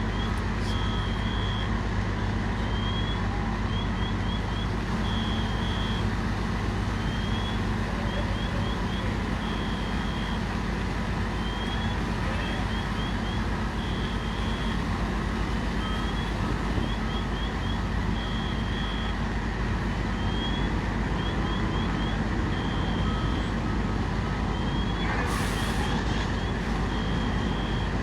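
Heavy truck engines running steadily under a high electronic alarm that repeats about every four seconds: a rising chirp, a quick run of short chirps, then a held tone. A brief hiss comes about 25 seconds in.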